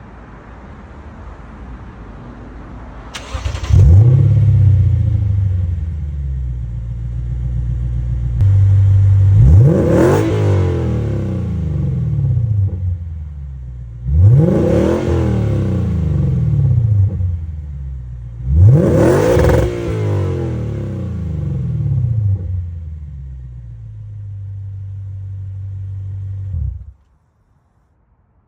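Lexus IS500's 5.0-litre V8 through an RR Racing valvetronic Bazooka exhaust, idling and then getting much louder about four seconds in. It is revved three times, each blip climbing sharply and falling back to idle, before the sound cuts off abruptly near the end.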